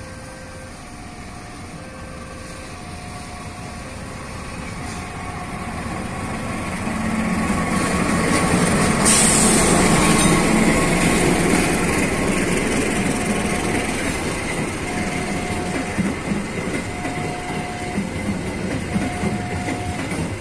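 Diesel-electric locomotive (CC 206 class) and its passenger carriages passing over a station turnout at restricted speed, coming off single track onto double track by the diverging route. The engine grows louder as it approaches and is loudest about nine seconds in, then the carriage wheels clack over the switch rail joints. A short electronic warning tone repeats about once a second in the background.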